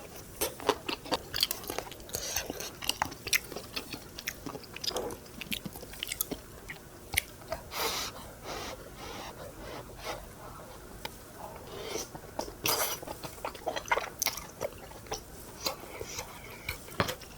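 Close-up chewing and biting sounds of a person eating, a dense run of short clicks and smacks.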